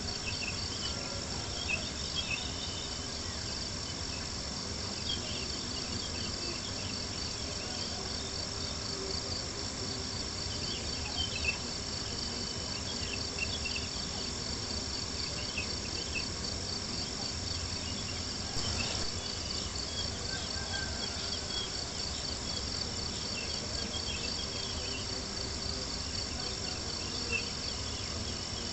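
Crickets chirping in a steady, pulsing trill, with a campfire crackling and popping now and then.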